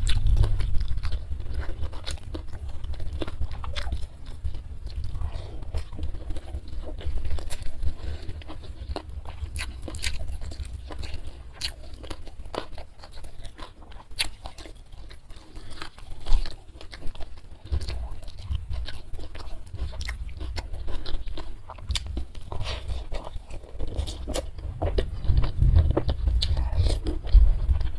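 Close-miked chewing, biting and crunching of food eaten by hand: steamed tuna, rice and leafy greens. Many small sharp mouth clicks run throughout.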